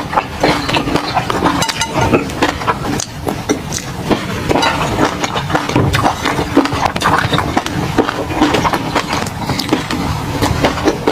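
Close-miked eating sounds: wet chewing and lip smacking on food in peanut sauce, with many quick, irregular sticky clicks.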